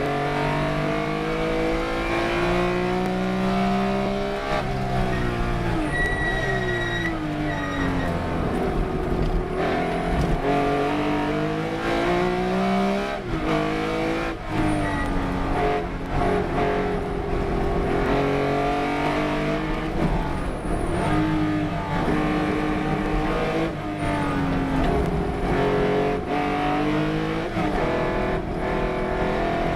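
Race car engine under hard driving, its pitch climbing as it accelerates and dropping through braking and gear changes, over and over. A brief high squeal comes about six seconds in.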